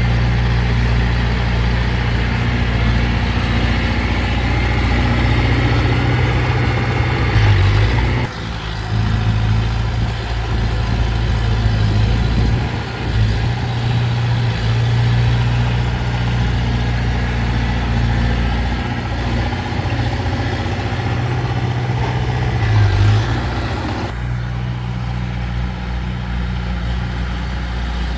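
Heavy diesel engine of earthmoving equipment running steadily with a low drone, its note shifting about eight seconds in and again near the end.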